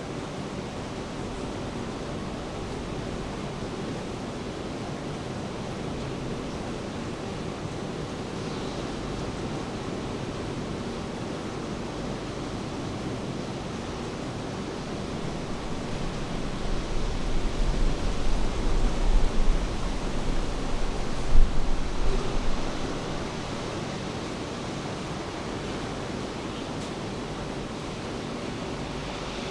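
Steady hiss of falling rain. About halfway through, a low rumble swells for several seconds and then fades back.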